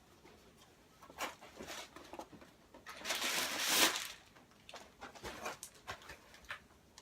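Shoe packaging being handled and opened: short paper and cardboard rustles, then a longer, louder rustle about three seconds in, with a few small clicks.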